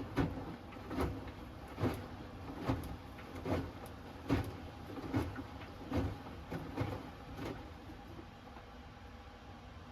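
Hoover Axi 10 kg front-loading washing machine tumbling its load in the drum. The laundry drops with a soft thud a little over once a second, then the thuds stop near the end as the drum pauses between turns.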